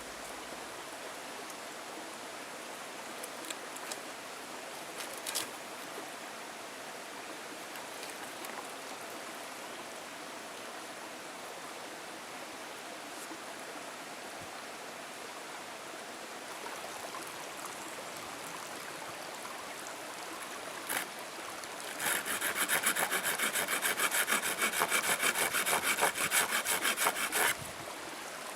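A saw cutting through wood in quick back-and-forth rasping strokes for about five seconds near the end, over a steady faint outdoor hiss.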